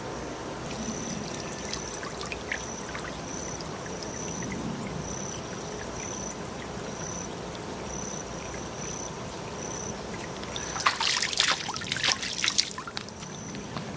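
Water trickling steadily. About two-thirds of the way through come a few seconds of sharp, louder crackles and knocks.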